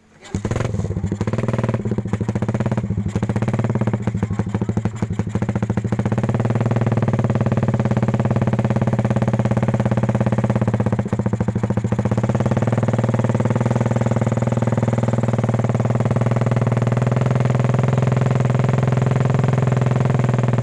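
Suzuki Satria FU's single-cylinder engine starting and idling loudly through a new aftermarket exhaust. It runs unevenly for the first few seconds, then settles into a steady idle.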